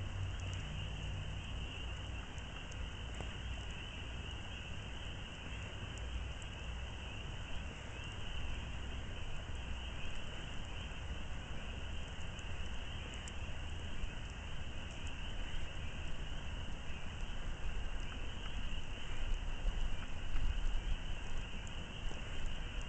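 Steady high chirring of crickets, with a low rumble underneath and a few faint pops and crackles from a wood campfire.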